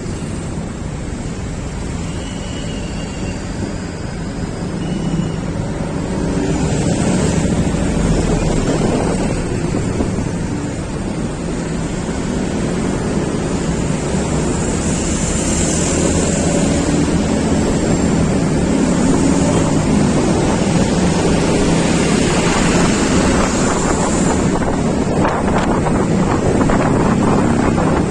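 Wind rushing over the microphone of a moving road vehicle, with road and engine noise underneath. It gets louder about six seconds in and again later, as the speed picks up.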